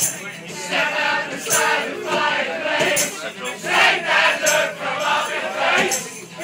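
A group of people singing together in a loose, unison singalong, with sharp high hits roughly every second and a half.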